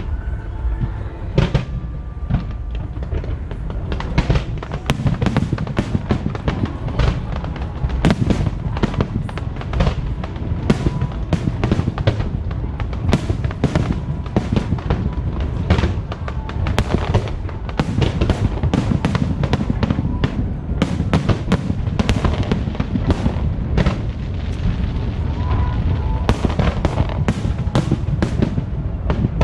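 Aerial fireworks going off in quick, irregular succession, sharp bangs and crackles over a steady low rumble, with music playing underneath.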